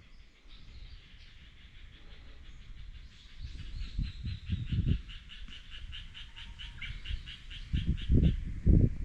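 An animal call, a fast even trill of about five pulses a second, high-pitched, running for several seconds in the middle before it stops. Irregular low rumbles and thumps come twice, the louder ones near the end.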